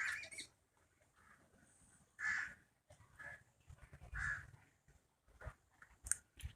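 A bird calling outdoors: three loud short calls about two seconds apart, with a fainter one between the second and third, and a brief high chirp near the end.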